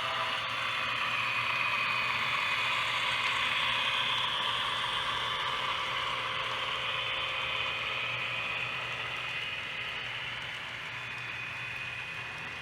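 HO scale model freight train running past on the track: a steady rolling clatter of wheels and motor gearing that slowly fades as it moves away. A horn blast cuts off at the very start.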